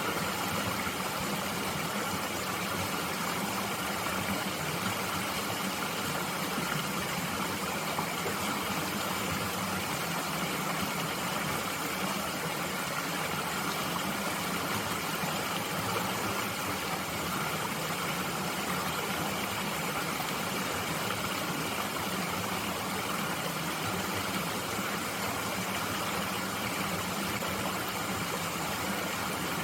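A mountain stream flowing, a steady rushing of water with no change in level.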